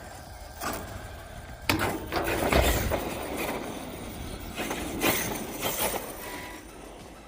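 Radio-controlled stunt trucks driving and jumping on skatepark concrete: an uneven rush of motor and tyre noise with a sharp knock a little under two seconds in, the loudest stretch around two and a half seconds in, and another jolt about five seconds in.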